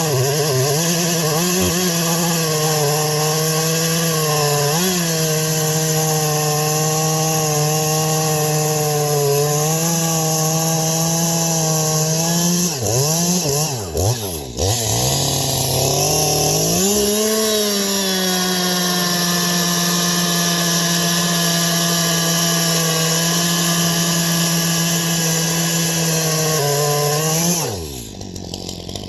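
Two-stroke chainsaw cutting wood at full throttle, the engine holding a steady pitch under load. About halfway it wavers down and back up, and near the end the pitch falls away as the throttle is released.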